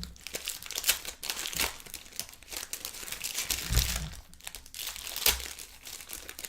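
Trading card pack wrappers crinkling and cards being handled while packs are opened, with several sharp crackles.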